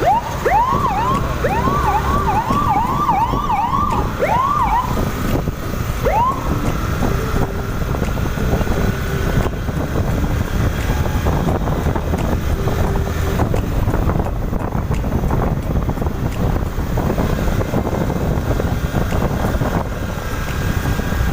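A siren yelping in quick rising-and-falling sweeps, about two or three a second, dying away about six seconds in. Steady wind and road noise of the motorcycle ride runs underneath.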